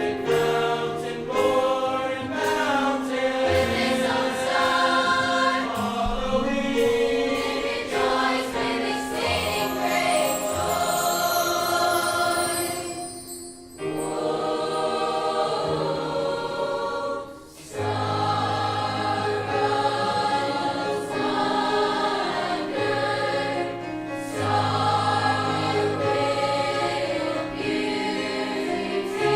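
High school choir singing a Christmas concert piece in sustained harmony, with two short breaks about halfway through.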